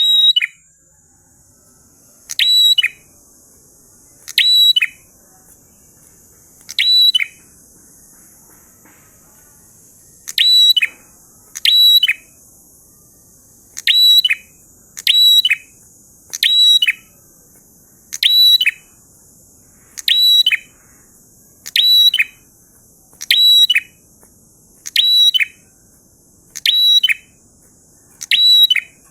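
A prenjak (prinia) calling the same short, sharp phrase over and over, some sixteen times, every one to three seconds. Each phrase is high and drops quickly in pitch. A faint steady high hiss runs underneath.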